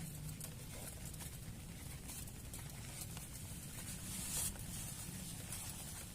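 Steady rain falling, with scattered drops tapping and a slightly louder burst of rain about four seconds in.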